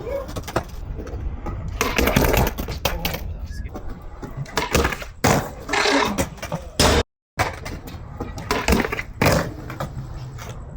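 Skateboards rolling on concrete and clattering, with repeated sharp cracks from tails popping and boards slapping down or hitting the ground during trick attempts. The sound cuts out completely for a moment about seven seconds in.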